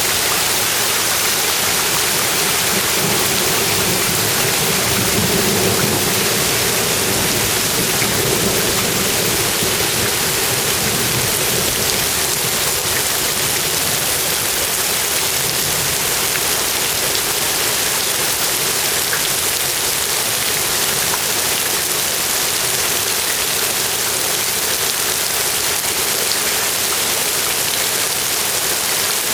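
Steady heavy rain falling, an even hiss throughout. A low rumble swells and fades over roughly the first ten seconds.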